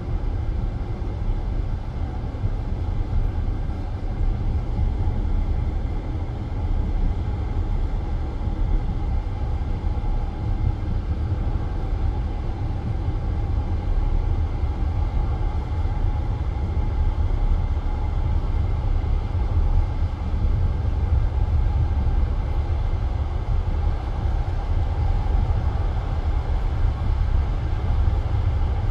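Passenger train running steadily along the line, heard from inside a carriage: a continuous low rumble of wheels on rails and the moving car.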